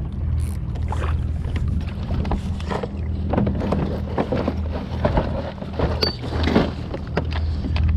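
Water splashing and sloshing at a kayak's side while a hooked fish is played to the boat, in irregular bursts, over a steady low wind rumble on the microphone.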